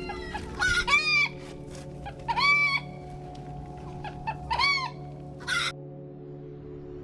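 Chicken calling: three drawn-out, arching squawks with shorter clucks between them, over a steady low drone.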